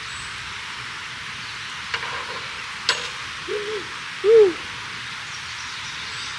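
Two short hooting calls, each rising and falling in pitch, the second louder, over a steady hiss; a couple of sharp clicks come just before them.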